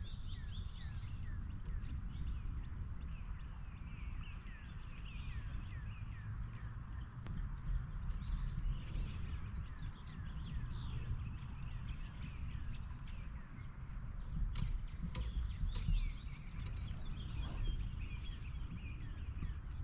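Birds chirping over and over in short, quick calls, over a steady low outdoor rumble. A few sharp clicks about three quarters of the way through.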